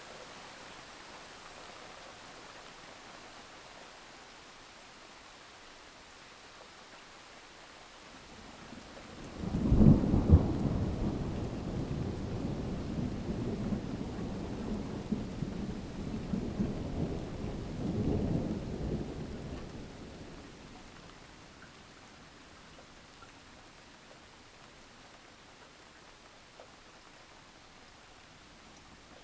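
Steady rain with a clap of thunder: about nine seconds in a sharp crack breaks into a long low rumble that swells once more and dies away over about ten seconds, leaving the rain.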